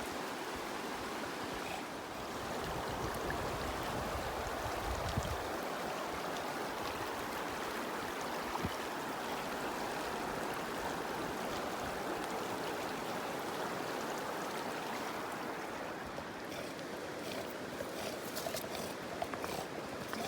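Steady rushing of a flowing stream, with a scatter of small sharp clicks near the end.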